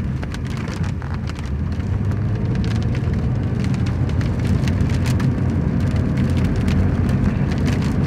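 Car driving in the rain, heard from inside: a steady low road and engine rumble with many scattered raindrops ticking on the car.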